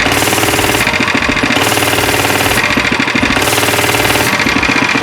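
Small pull-start mini bike engine running after a repair, with a fast, even firing pulse and a roar. Three surges of louder hiss come at about one-second spacing.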